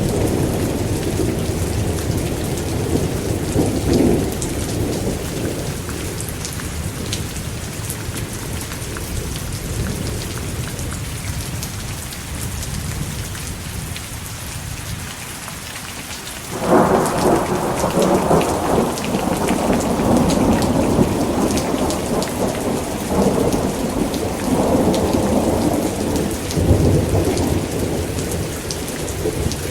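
Thunderstorm: steady heavy rain hissing throughout, with rolling thunder. A low rumble fades away over the first dozen seconds, then a sudden loud thunderclap a little past halfway rumbles on in waves.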